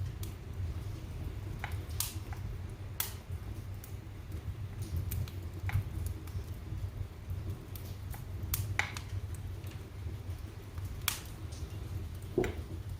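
Wood fire burning in a fireplace: a low steady rumble of flames with irregular sharp crackles and pops, a louder pop near the end.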